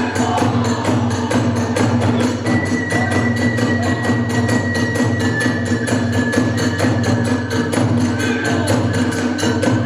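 Kagura hayashi accompaniment: drums and small hand cymbals keep a fast, even beat, while a bamboo flute holds long high notes over it, stepping down a little midway.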